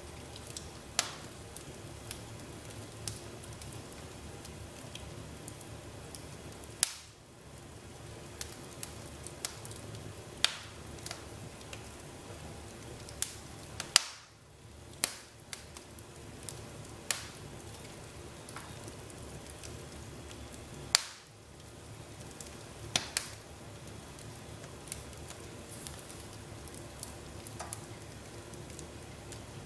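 Wood fire in a fireplace crackling, with a steady low hiss and irregular sharp pops, a few of them much louder, the loudest about halfway through.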